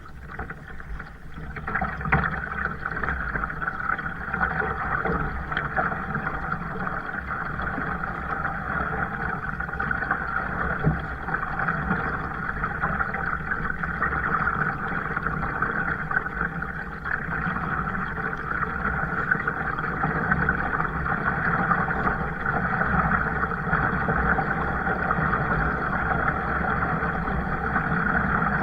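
Kayak moving on the water: a steady rushing noise with a low rumble underneath, growing louder about two seconds in and then holding steady.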